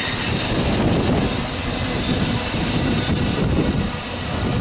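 A Union Pacific freight train of autorack cars rolling past, with a steady rolling noise of steel wheels on the rails. A high hiss over it fades after about a second.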